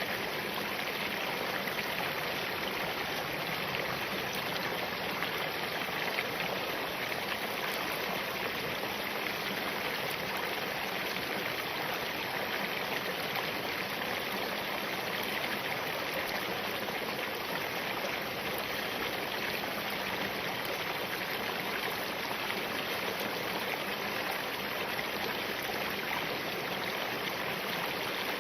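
Small stream of spring water flowing steadily over and between rocks.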